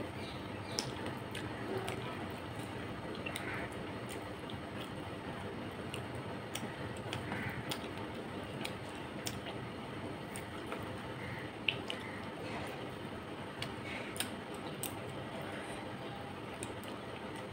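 Wet chewing and mouth sounds of a person eating rice and fish curry by hand, with scattered small clicks over a steady background noise.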